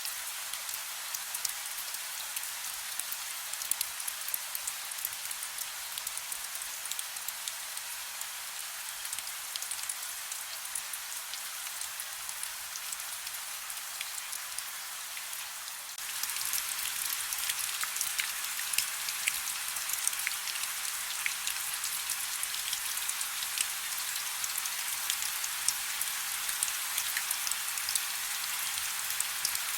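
Soft, steady rain hiss with small drops pattering. About halfway through it abruptly gets louder, with more distinct drop ticks.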